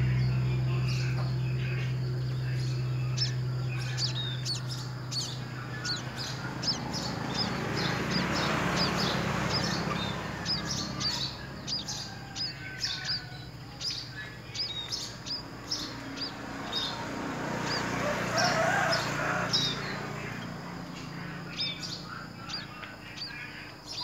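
Small birds chirping: rapid, short, high chirps repeated over and over. A low steady hum fades away over the first several seconds, and a rushing hiss swells up twice.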